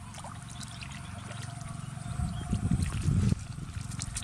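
Water trickling and splashing, louder from about two to three seconds in.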